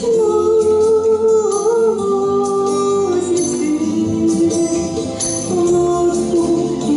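A song with a sustained singing voice over instrumental backing, with a jingling percussion line such as a tambourine.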